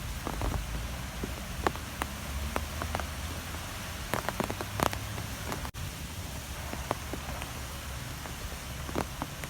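Strong wind blowing steadily with a low rumble, scattered with sharp ticks and taps. The sound drops out for an instant about halfway through.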